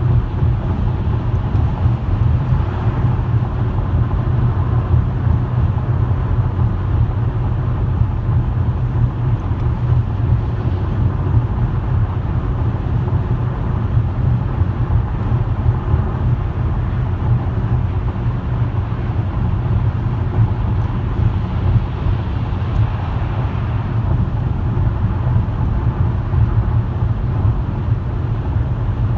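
Steady low rumble of a car being driven: road and tyre noise with the engine underneath, even throughout.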